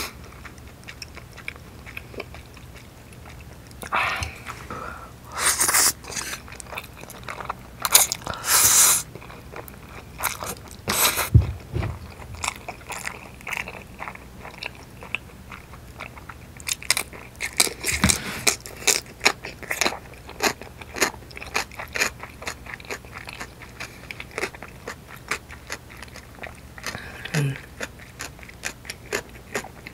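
Close-miked eating sounds: wet chewing of noodles and chewy rice cakes, with crisp, crunchy bites of pickled yellow radish, made up of many quick mouth clicks.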